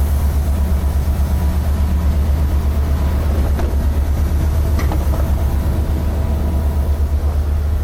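Train engine idling at the platform: a steady low rumble, with a couple of faint clicks about halfway through.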